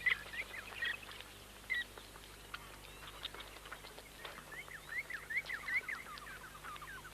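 Dwarf mongooses giving many short, high-pitched chirps and squeaks while they squabble over an egg, with a fast run of downward-sweeping chirps in the second half.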